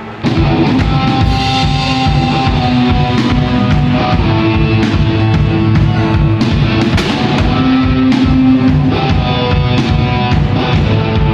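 Live rock band playing loud, with drum kit and guitars; the music cuts in suddenly just after the start.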